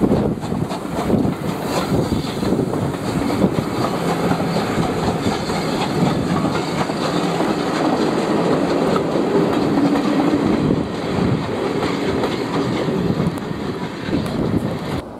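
Train of passenger coaches rolling past at low speed behind a steam locomotive: a steady rumble of wheels on rails with clicks as the wheels cross the rail joints.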